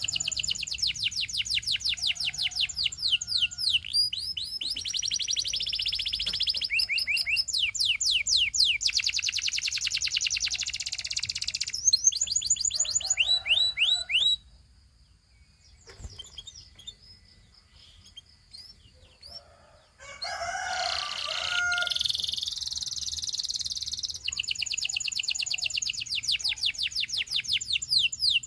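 Domestic canary singing: long high trills of rapidly repeated notes, phrase after phrase. The song breaks off for about five seconds midway, with only faint notes, then resumes.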